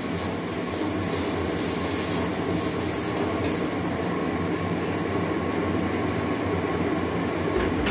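Masala paste of onion, ginger-garlic and ground spices frying in oil in a steel kadai, a steady sizzle over a constant low rumble, with a faint tick of the steel spatula about three and a half seconds in.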